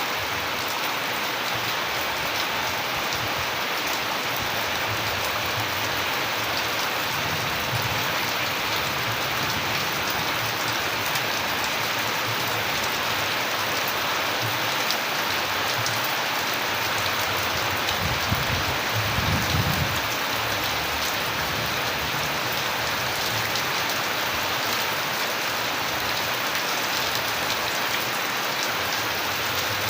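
Steady rain falling on surfaces, a dense even patter of drops. A brief low rumble rises under it a little past the middle.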